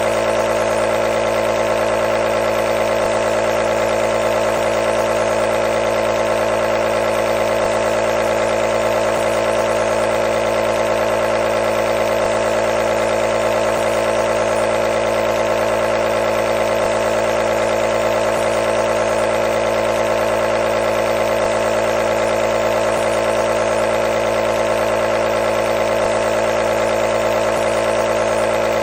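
Nebulizer running continuously: a steady, unchanging motor hum.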